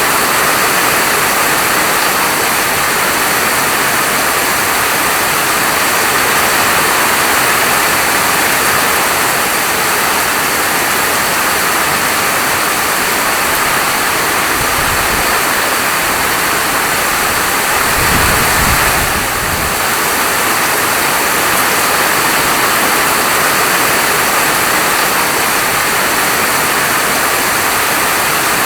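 Heavy rain falling steadily, a dense even hiss. A brief low rumble swells twice about halfway through.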